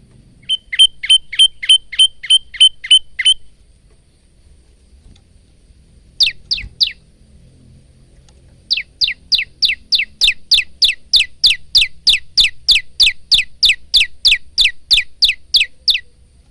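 Male prenjak lumut songbird singing loud runs of sharp, rapidly repeated notes, each falling in pitch: a short run of about nine notes, a brief three-note burst, then a long run of about four notes a second.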